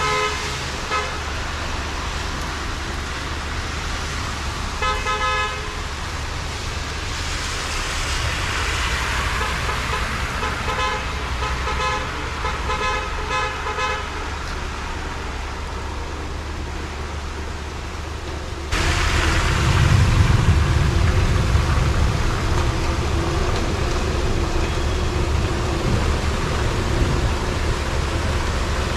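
Heavy rain and road traffic, with car horns tooting several times in the first half. About two-thirds of the way in, a low rumble sets in abruptly and stays.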